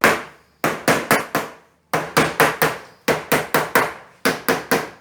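Hammer driving nails into wooden boards: quick runs of sharp strikes, about four or five a second, with short pauses between the runs.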